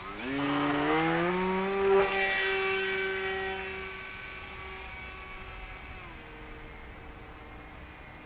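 Flying wing's electric motor and propeller whining, rising in pitch over the first two seconds as the throttle comes up, holding, then dropping in pitch in a few steps and growing quieter as the throttle is eased back.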